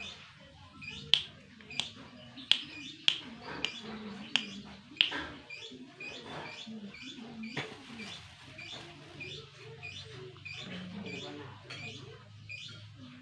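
Caged birds calling with small repeated chirps, with a series of sharp taps about every two-thirds of a second through the first five seconds and one more near eight seconds.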